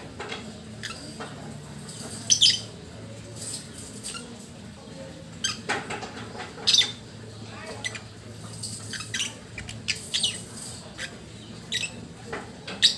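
Lovebird giving short, irregular chirps and squeaks in its sleep, a few louder than the rest, over a faint steady hum.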